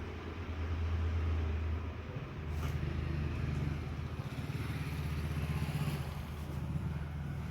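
Yamaha RayZR scooter's single-cylinder four-stroke engine running steadily, its note changing slightly about two seconds in.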